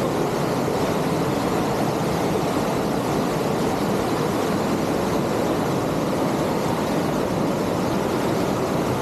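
Steady rushing of water from a large monsoon waterfall, Kalu Waterfall, an unbroken even noise that holds at one level throughout.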